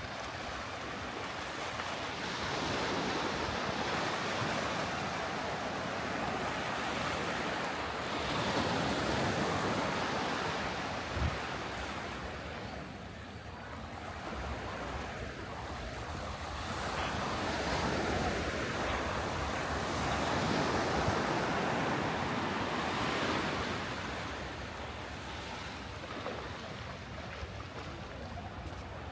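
Sea waves breaking and washing up on a sandy beach, the surf swelling and easing every few seconds, with some wind on the microphone and a single short knock about eleven seconds in.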